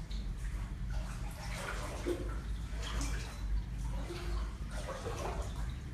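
Water sloshing and splashing in a small indoor pool as a cat swims, over a steady low hum.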